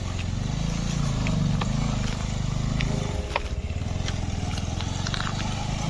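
Motorcycle engine running while riding, its pitch rising and falling as the throttle is opened and eased, with a dip about three seconds in.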